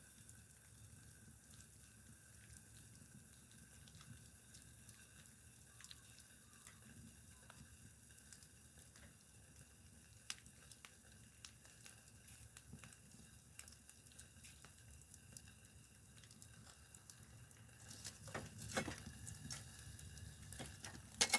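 Wood campfire crackling faintly with scattered small pops, with louder knocks and rustles of handling in the last few seconds.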